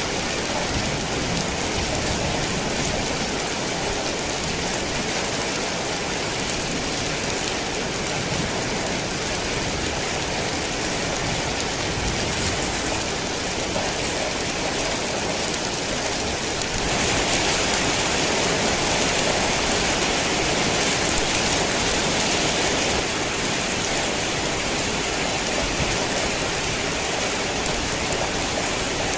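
Heavy rain falling steadily, growing a little louder for several seconds after the middle.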